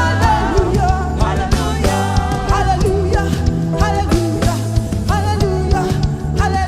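Live band music with drums and guitar at a steady beat, with singing over it.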